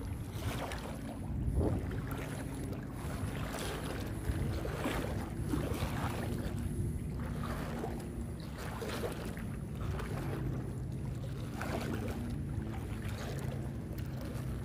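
Legs wading through thigh-deep swamp water, sloshing with each stride about once a second, over a low steady hum.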